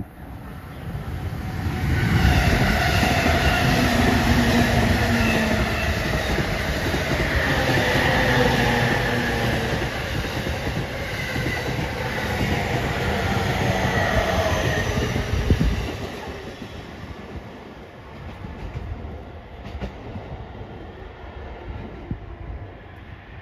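E231-1000 series electric commuter train passing close by as it slows: a loud rumble of wheels on rail with a whine that falls in pitch as it decelerates. The noise builds over the first couple of seconds and drops off sharply about 16 seconds in, as the last car goes by.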